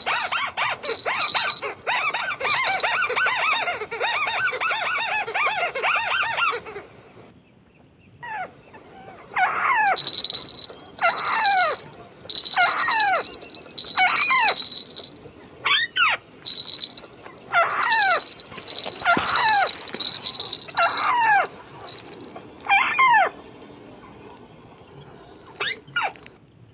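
White-browed crake calls used as the trapping lure: a dense chattering chorus for about the first seven seconds, then a series of single calls that fall steeply in pitch, about one every second and a half, dying away near the end.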